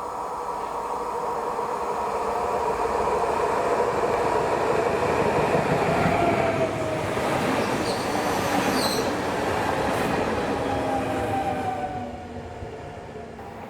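A train passing by. Its humming tones grow louder, then drop in pitch as it goes past about six seconds in. There is a brief high wheel squeal around eight seconds, and the sound dies away after about twelve seconds.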